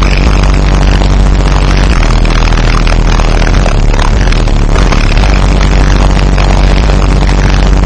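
Very loud bass-heavy hip-hop music played through two Millenium Pacific Diamond 15-inch subwoofers in a ported enclosure, with deep bass notes that change pitch every few seconds.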